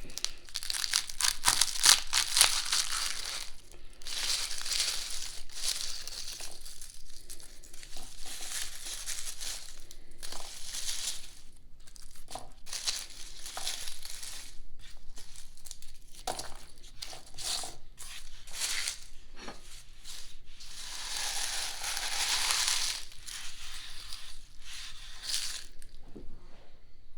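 Dry, papery garlic skins crackling and tearing as garlic is broken apart and peeled by hand, in irregular bursts with small clicks.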